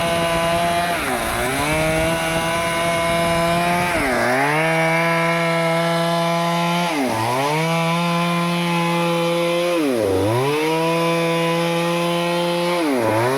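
Stihl chainsaw running at high revs while cutting teak wood. Its engine pitch sags and recovers about every three seconds, five times, as the chain bites under load.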